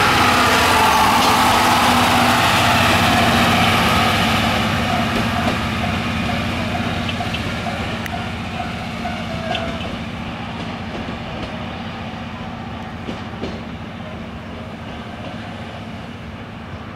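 Diesel-hauled train's passenger coaches rolling past on the rails, then fading steadily as the train draws away. A steady low drone runs underneath, with a high ringing tone over the first half.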